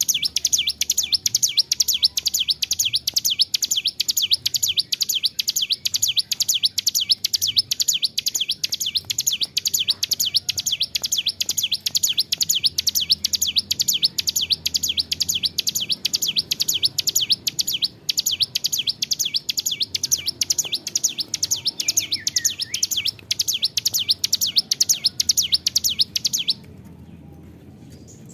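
Ciblek gunung, a prinia, singing a long unbroken run of rapid high chirps, about five a second, that stops abruptly near the end.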